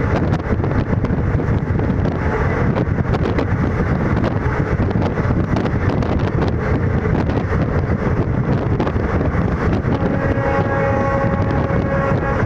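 Indian Railways ICF passenger coach running at high speed: a steady loud rumble and rattle with many short clicks and knocks. About ten seconds in, a steady multi-tone train horn starts and is held on.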